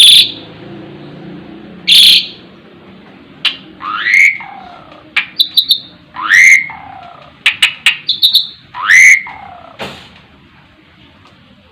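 Asian pied starling calling: loud harsh, scratchy notes and sharp clicks, with three whistled calls that rise quickly and then drop lower, a couple of seconds apart.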